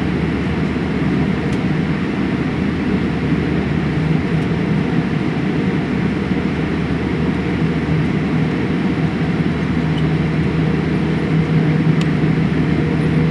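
Steady cabin noise inside a Boeing 787-8 taxiing in after landing, the engines running at idle. A low hum grows a little stronger in the second half.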